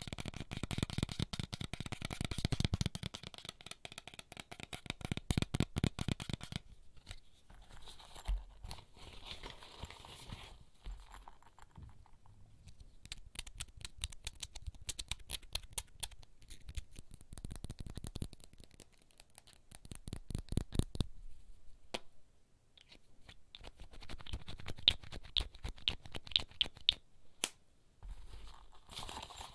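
Fingertips tapping and scratching quickly on small handheld objects, in dense runs of taps broken by short pauses.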